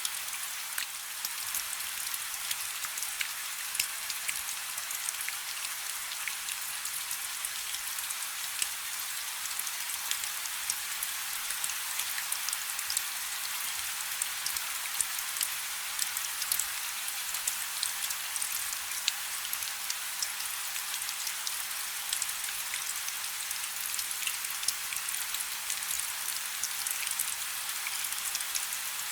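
Rain falling on a river: a steady hiss of many small drops, with scattered sharper individual drop ticks.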